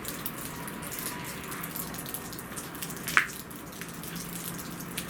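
Falling wet snow pattering, with water dripping: a steady light haze of many small ticks and one sharper drip about three seconds in.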